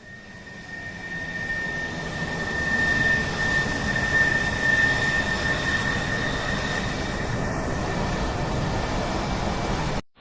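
Helicopter engine and rotor noise growing louder over the first few seconds, then holding steady, with a steady high-pitched whine over it.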